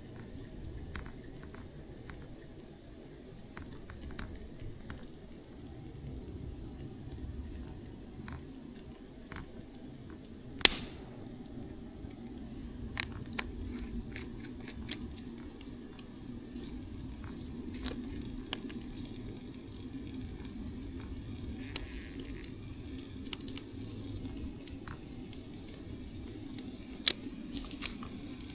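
Wood fire crackling: scattered small pops and snaps over a low steady rumble, with one sharp loud crack about ten and a half seconds in and another near the end.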